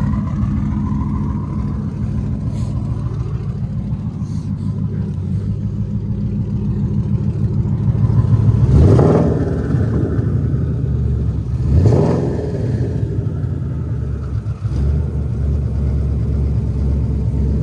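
Twin-turbo 2020 Shelby GT500's 5.2-litre V8 while driving: a steady engine note, then two short bursts of acceleration about nine and twelve seconds in, the pitch rising quickly each time.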